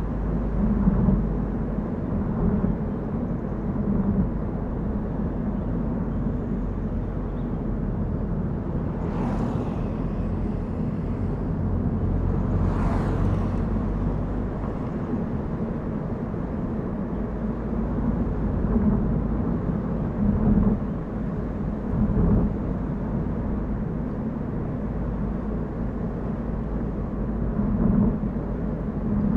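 A car driving on a mountain road: steady engine and tyre noise, with two brief whooshes about nine and thirteen seconds in.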